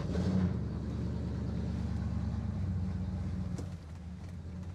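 A motor vehicle's engine running with a steady low rumble, swelling in the first half-second and easing off slightly after about four seconds.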